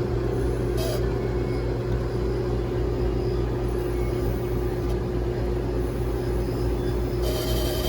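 Rheem RP14 heat pump outdoor unit running steadily, compressor and condenser fan giving a constant hum with a steady tone over a low rumble, while refrigerant is slowly charged into the system. Two short hisses, about a second in and near the end.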